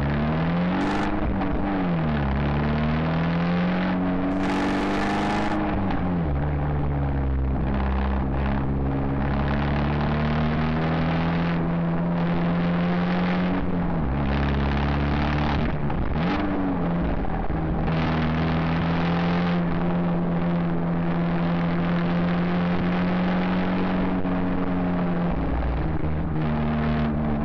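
Abarth 124 Spider's 1.4-litre turbocharged four-cylinder engine and exhaust under way: revs climb and drop twice in the first few seconds as it pulls away through the gears, then settle to a steady cruise with small dips. The external microphone recording is badly distorted by clipping.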